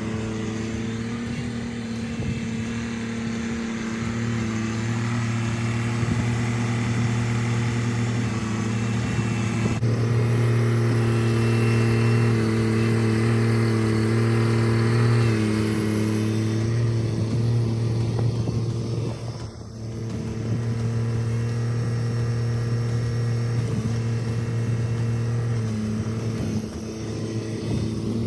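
Kubota compact tractor's diesel engine running steadily under a constant note, with a brief drop in level about two-thirds of the way through.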